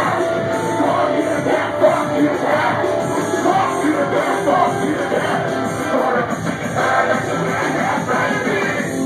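A live rock band playing loudly, with a voice yelling over the music.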